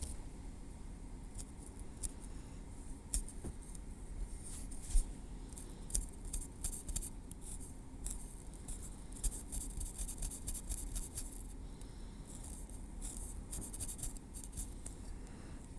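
Tweezers working over a scalp and through hair, making soft irregular clicks and scratches, in denser runs about two-thirds of the way through and again near the end.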